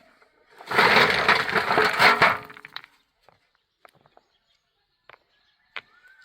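A loud crunching, crashing noise lasting about two seconds, then a few faint clicks.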